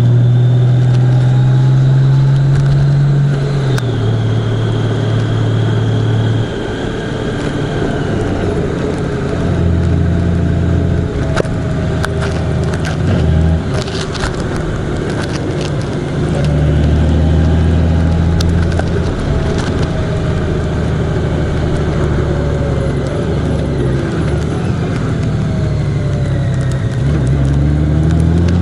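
Vehicle engine running under way, recorded on board. Its note steps up and down several times as the revs change, with a cluster of sharp clicks about halfway through.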